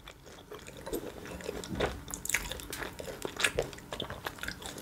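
A mouthful of food being chewed close to the microphone: irregular wet clicks and smacks of the mouth, several a second.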